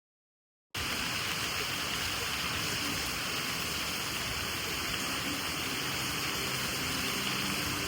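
Steady rushing hiss of water, starting abruptly just under a second in and holding evenly.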